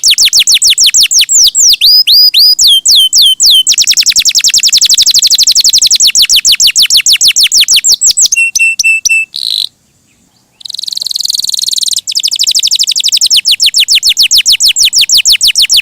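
Domestic canary singing: long rolling trills of rapid, high, downward-sweeping notes, with a few slower swooping notes and a short run of steady notes along the way. It breaks off briefly about ten seconds in, gives a buzzy rattling phrase, then goes back to fast trills.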